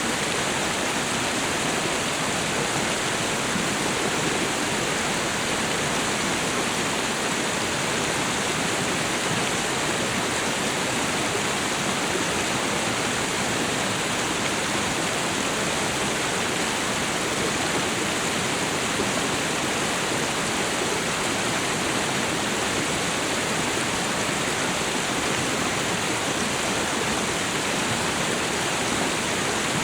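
Waterfall and river water rushing, a steady, even roar of falling and flowing water with no breaks or changes.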